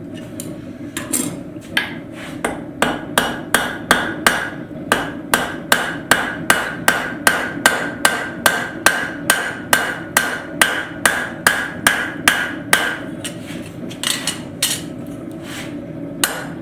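Hand hammer striking steel on an anvil, peening over the rivet of a pair of blacksmith's tongs: a steady run of ringing blows, about three a second, then a few scattered blows near the end, over a steady low rush.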